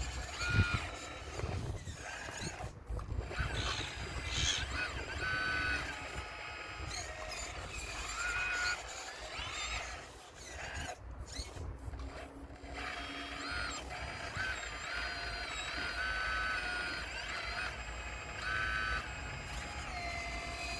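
Radio-controlled model Caterpillar excavator working, its motors whining at several pitches that rise, fall, start and stop as the controls are worked, over a low rumble.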